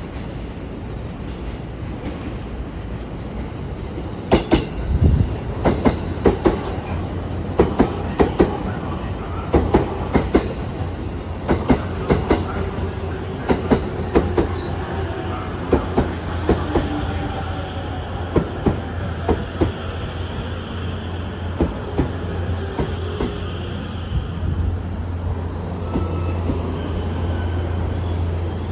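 JR East E257 series electric multiple unit (2000-number set NA-01) pulling in and slowing to a stop: a steady low rumble of the train with sharp wheel clicks over rail joints and points in groups, spaced further apart as it slows. A faint whine falls in pitch through the middle as it brakes.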